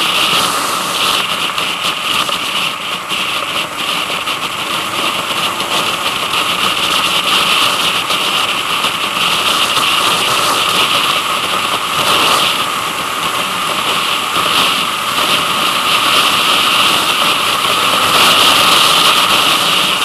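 Vehicle engine running steadily on the move, under a constant hiss of wind and road noise.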